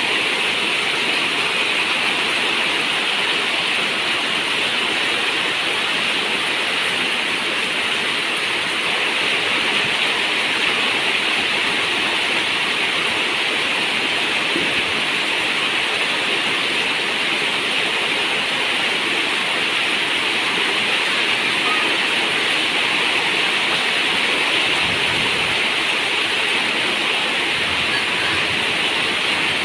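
Rain falling steadily on a zinc roof, an even, unbroken hiss of water.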